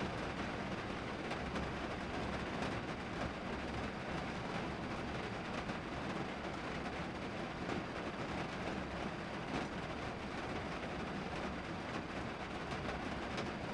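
Steady rain falling on a car's roof and windows, heard from inside the cabin as an even low rumbling hiss with scattered individual drop ticks.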